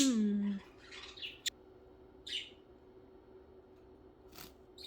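Pet budgerigars giving a few short, scattered chirps with quiet gaps between them.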